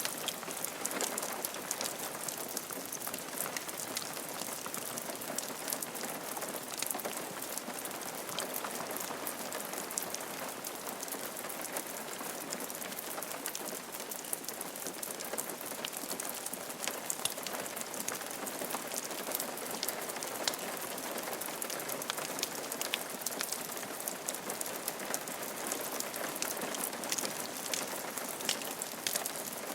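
Steady rain falling on a roof, an even hiss dense with the ticks of individual drops.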